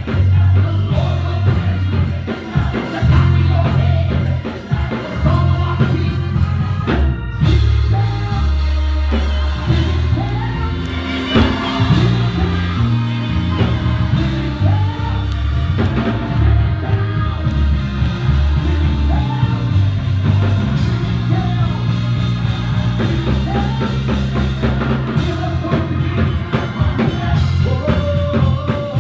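Live church worship band playing with singing, over drums and a heavy bass line.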